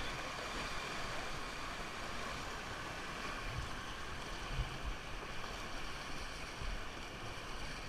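Fast-flowing river water rushing steadily around a raft, with a few low thumps about halfway through.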